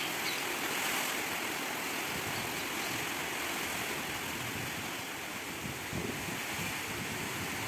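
Heavy tropical downpour and strong wind: a steady hiss of rain, with low gusts buffeting the microphone now and then, the strongest about six seconds in.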